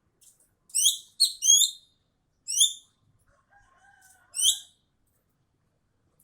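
An ekek keling bird calling: five short, high, harsh notes, each dropping in pitch. Three come in quick succession about a second in, then one more at about two and a half seconds and another at about four and a half seconds.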